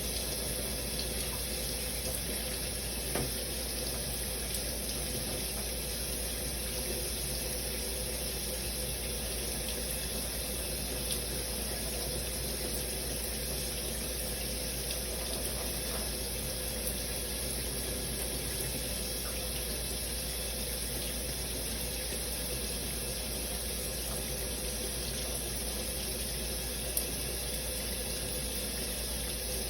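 Shower running steadily, an even hiss of spraying water with a few faint ticks.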